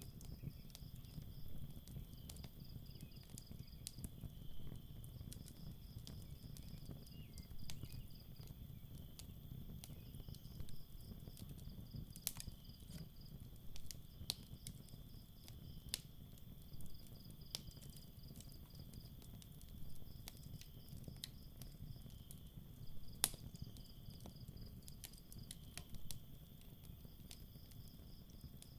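Campfire crackling with scattered sharp pops, one louder pop about two-thirds of the way through, over a low steady rumble. Night crickets chirp in short pulsed trains every couple of seconds.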